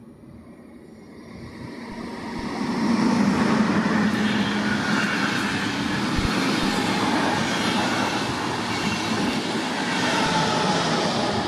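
A train approaching and passing close by on the main line: it grows louder over the first three seconds, then rolls past with a steady rush of wheel-on-rail noise and a few sharp clicks.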